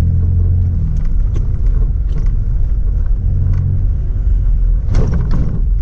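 Toyota Tacoma pickup driving on a forest road: engine hum and low road rumble. The steady engine tone fades about a second in, leaving the rumble.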